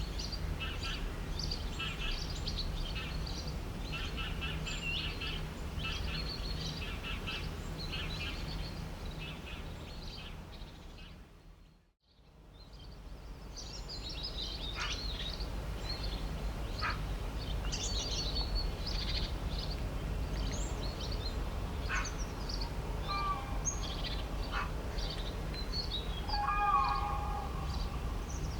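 Many small birds chirping and twittering over a steady low background rumble. The sound fades out to silence about twelve seconds in, then fades back in; a louder, longer pitched call stands out near the end.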